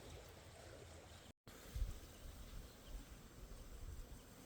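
Faint outdoor ambience with a few low thumps on the microphone. It cuts to silence briefly about a second in.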